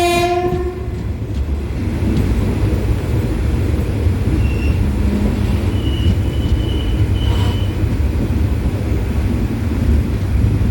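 A train's horn cuts off about a second in, then the train's steady low running rumble as it pulls into a station platform.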